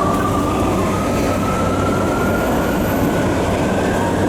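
Tokyu 3020-series electric train running, heard from inside the car: a steady rumble of wheels on rail with a thin motor whine that rises slowly in pitch as the train gathers speed.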